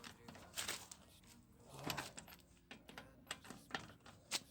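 Irregular light clicks and knocks of hand work on a car wheel, metal parts and tools being handled during a tyre change.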